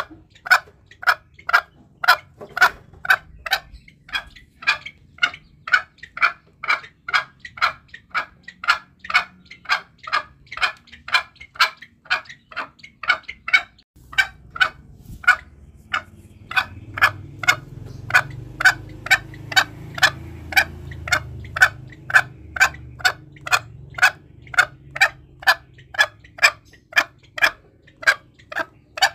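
Green junglefowl giving a fast, even series of short clucking calls, about two to three a second, with a short break near the middle. A low rumble sits under the second half.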